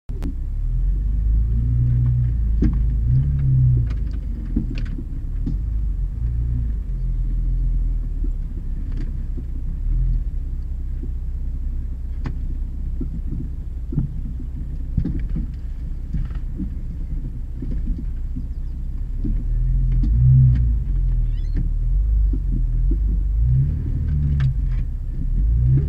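Off-road 4x4's engine running at low revs as it crawls over rough ground, the note rising briefly a few times, with scattered short knocks and clicks.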